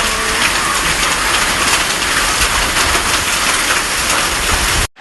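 Heavy rain mixed with hail in a storm: a dense, loud hiss peppered with many sharp ticks of hailstones striking surfaces. It cuts off suddenly just before the end.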